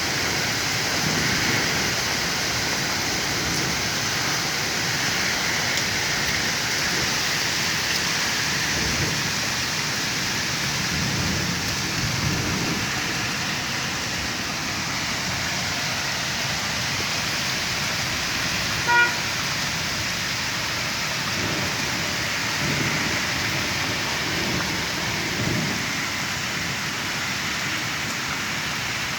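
Rain and hail driven by a strong wind: a steady hiss of falling precipitation, with gusts rumbling low on the microphone. About two-thirds of the way in there is one brief pitched beep.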